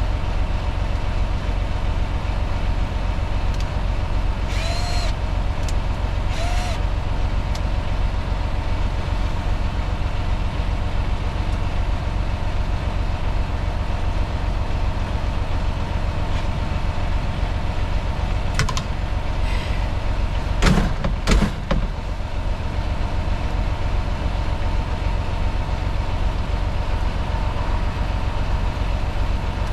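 A semi truck's diesel engine idling steadily, with a few short knocks and squeaks over it and a louder cluster of clunks about two-thirds of the way through.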